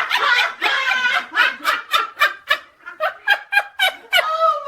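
A person laughing hard in quick, short repeated laughs, about five a second, with a longer drawn-out laugh near the end.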